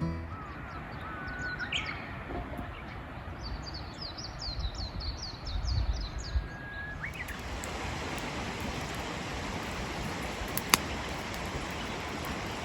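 Wild birds calling outdoors: a few whistled notes and a quick run of high chirps in the first half. After that comes a steady hiss with a few sharp clicks, the loudest about eleven seconds in.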